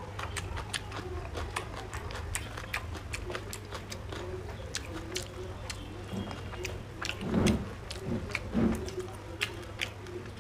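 Close-miked eating sounds: wet chewing, lip smacks and mouth clicks of a man eating rice and curry by hand. Two louder, low, muffled sounds come about seven and a half and eight and a half seconds in.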